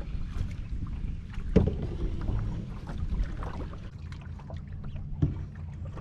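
A canoe being paddled: water moving with small clicks and knocks, and two sharper knocks against the hull, about a second and a half in and again near the end.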